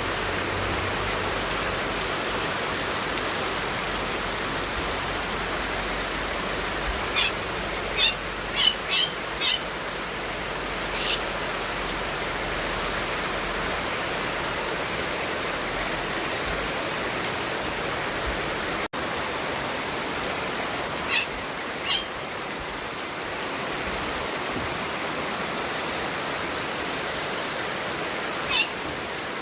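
Steady rain falling, with short high bird chirps: a run of several chirps about a quarter of the way in, two more about two-thirds through, and another near the end.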